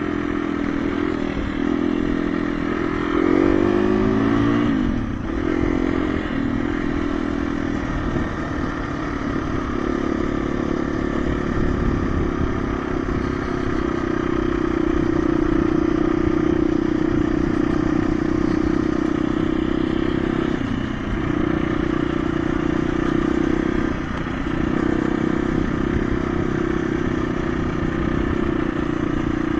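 KTM 350 EXC-F dirt bike's single-cylinder four-stroke engine running under way, revs rising as it accelerates a few seconds in, then held steady with two brief dips in revs about two-thirds of the way through.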